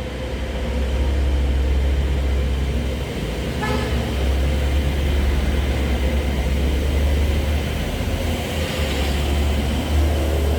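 Porsche 911's flat-six engine running steadily, a deep, even rumble, with one brief higher-pitched tone about four seconds in.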